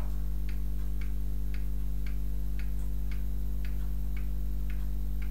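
Even ticking, about two ticks a second, over a steady low hum.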